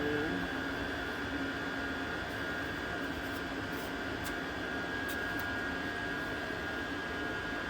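A fan or small motor running steadily, a constant whir with a steady high whine over it and a few faint ticks.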